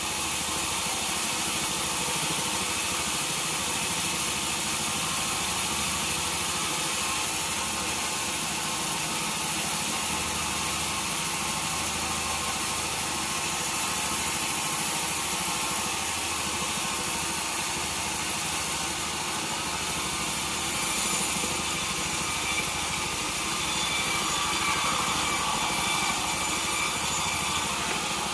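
Sawmill saw and its motor running steadily while cutting wood, with an even, unbroken mechanical noise.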